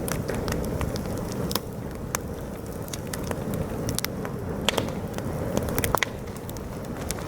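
Campfire crackling and popping, with sharp irregular snaps over a steady rumble of strong wind buffeting the microphone.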